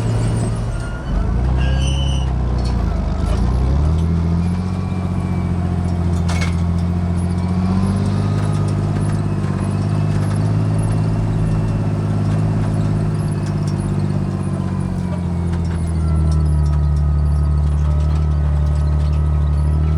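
John Deere 8410 tractor's six-cylinder diesel engine running steadily under load. Its revs dip and climb back within the first few seconds, and it settles to a slightly lower, louder note about sixteen seconds in.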